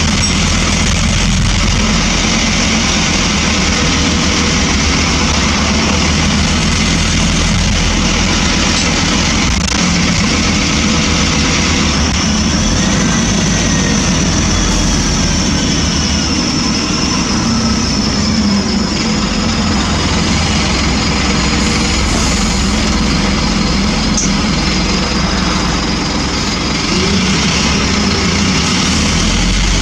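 Scania N230UB single-decker bus's diesel engine running with road noise, steady throughout, with a thin high whine joining from about twelve seconds in for roughly half the time.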